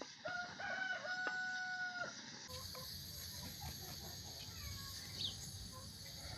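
Rooster crowing once: a few short rising notes, then a long held note that stops about two seconds in.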